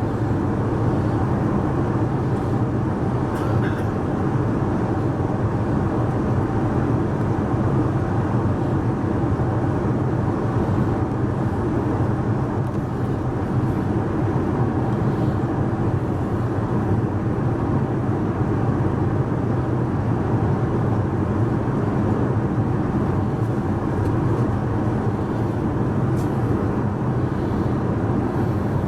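Steady cabin noise of an Airbus A380 in cruise, heard from inside the passenger cabin: a constant rush of airflow and engine noise that does not change.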